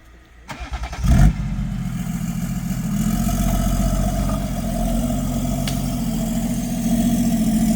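A vehicle engine is cranked by its starter and catches with a loud burst about a second in, then settles into steady running.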